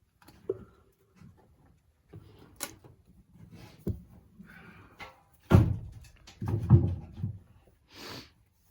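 A string of irregular knocks and thumps, the loudest a cluster about five and a half to seven seconds in, then a short breathy hiss near the end.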